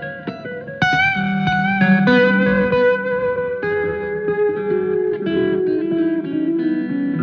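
Electric guitar played solo: a few plucked notes, then about a second in a loud sustained note with vibrato, followed by a run of notes stepping downward.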